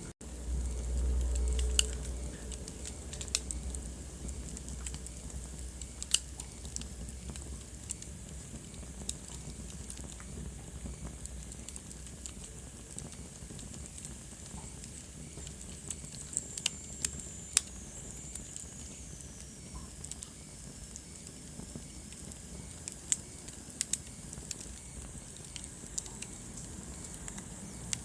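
Wood fire in a fireplace crackling, with irregular sharp pops over a low steady rumble; the rumble is louder for the first couple of seconds. A faint high whistle falls in pitch a little past the middle.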